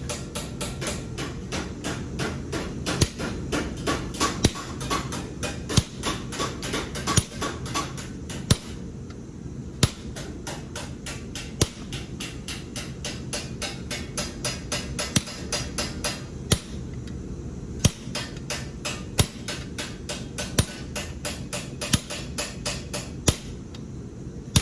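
Hand hammer striking a small piece of metal: a quick run of lighter taps with a heavier blow about every second and a half. The metal is being spread wider to forge the head of a Mjolnir pendant.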